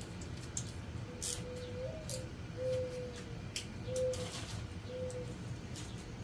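A dove cooing four times, one longer note and then three shorter ones, over scattered sharp metallic clicks of hand tools as small bolts are run down on a motorcycle engine.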